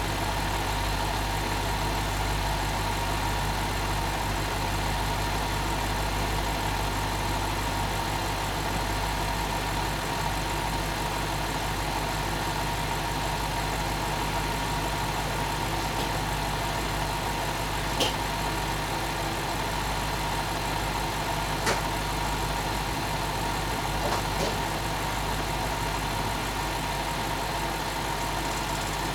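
BMW 645Ci's 4.4-litre V8 idling steadily, with no revving. Three short sharp clicks stand out over the idle past the middle.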